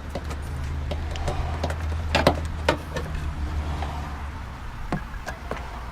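Scattered sharp clicks and knocks of hands and tools working on hoses and a plastic connector in a car's engine bay, the loudest two close together a little over two seconds in, over a low steady hum.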